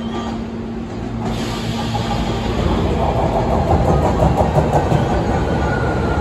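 Hankyu commuter train pulling into the platform: the rumble of its wheels and motors swells as it approaches and runs alongside. A thin whine comes in near the end as it slows.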